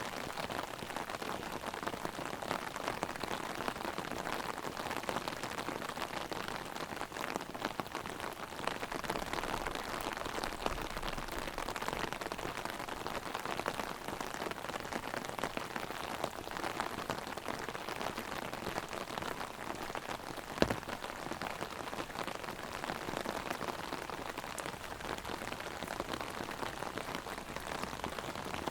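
Heavy rain pattering on an open umbrella overhead: a dense, steady crackle of drops. One sharp, louder tap about two-thirds of the way through.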